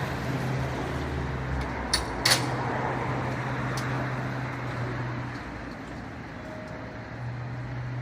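Fire truck engine running with a steady low hum, with two sharp knocks about two seconds in and a fainter one a little later.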